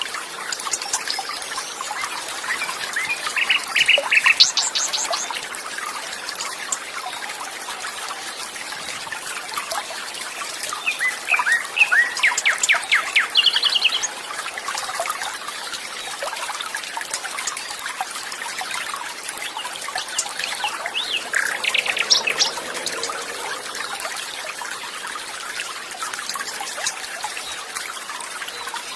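Water trickling and burbling steadily, with songbirds calling over it in three bursts of rapid repeated chirps, about three seconds in, around the middle, and about three quarters of the way through.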